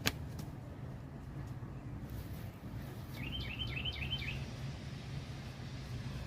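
A small songbird sings a quick run of about six high chirping notes around the middle, over a steady low outdoor rumble. A single sharp click at the very start.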